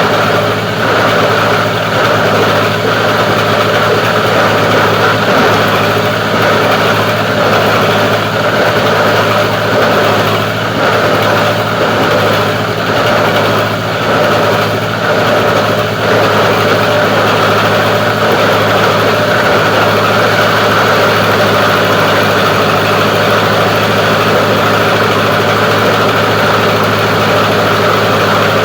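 Plastic recycling grinder machine running loudly and steadily, with a hum and a higher whine; the sound turns uneven for several seconds in the middle, then settles back to a steady run.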